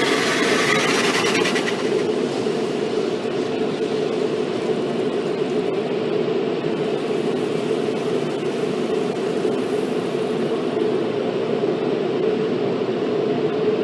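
Automatic car wash machinery heard from inside the car's cabin: a steady, loud rushing drone. A higher hiss on top dies away about two seconds in.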